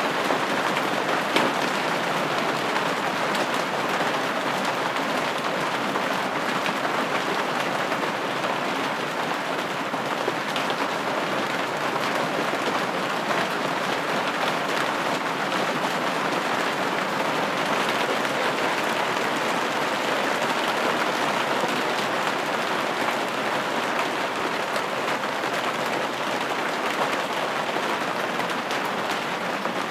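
Steady rain pattering on a window pane, a dense even hiss of drops with small scattered taps.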